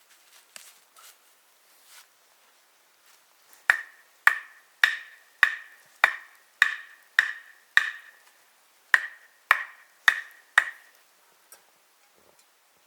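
Sharp, ringing knocks on wood, about two a second: eight strikes, a short pause, then four more.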